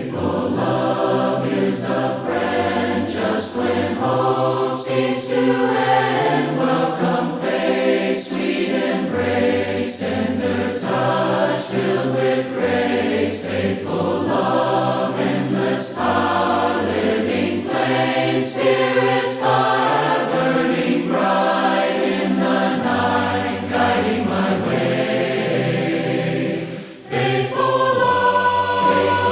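A choir singing a hymn in harmony, unaccompanied, with a brief break near the end before the next phrase.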